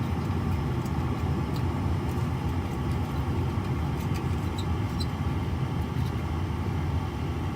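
Gas furnace running with a steady low drone, with a few faint clicks over it.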